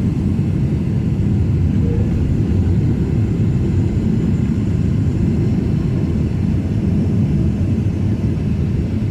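Steady low rumble of a Boeing 767 airliner's engines and airflow, heard from inside the cabin.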